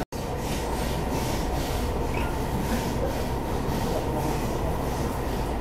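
Taiwan Railways local commuter electric train running, heard from inside the passenger car: a steady low rumble of wheels on track with an even hiss above it. The sound cuts out for a split second at the very start.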